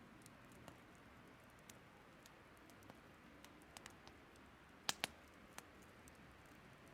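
Burning firewood crackling: sparse small pops and ticks, with two louder pops in quick succession about five seconds in, over a faint steady rush of flowing water.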